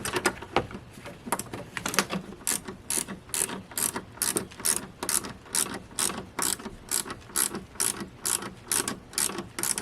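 Hand ratchet wrench clicking steadily, about three clicks a second, as a bolt is tightened.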